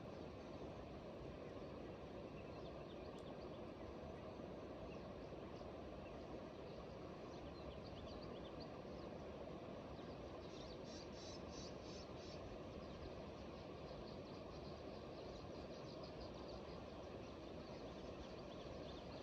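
Faint steady outdoor background hiss with small birds calling: scattered short high chirps, and a quick run of repeated high notes about ten seconds in.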